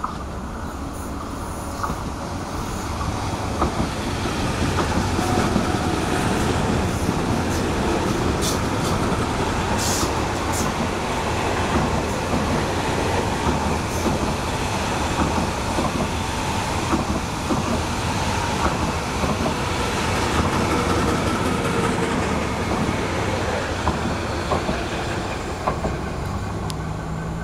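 MTR SP1900 electric multiple-unit train passing, a steady rumble of wheels on rails that gets louder about four seconds in, with a few sharp clicks from the wheels on the track.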